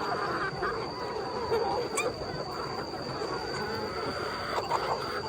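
A flock of chickens clucking and calling over one another in a dense, continuous chatter, with a steady high-pitched tone alongside.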